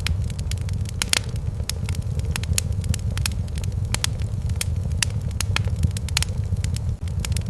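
Wood fire in a fireplace crackling, with irregular sharp pops several times a second over a steady low rumble of the flames.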